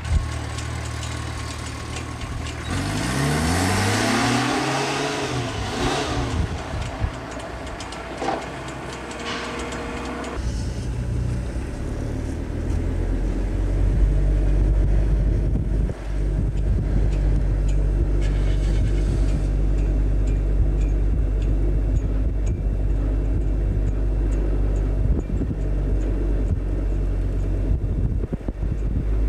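Vehicle engines running: a deep, steady engine drone, with an engine note that rises and falls a few seconds in and a sudden change about ten seconds in, as a car drives up to the bow ramp of a car-ferry hovercraft.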